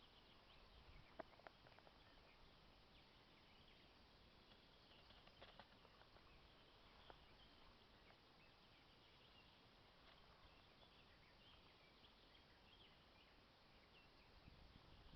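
Near silence: faint woodland ambience with scattered small high chirps, typical of distant birds or insects, and a few soft clicks about a second in, around five and a half seconds and near seven seconds.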